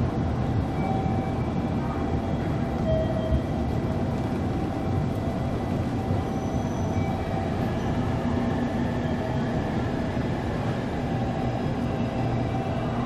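Steady low rumble of a train standing at the platform, with faint steady tones above it.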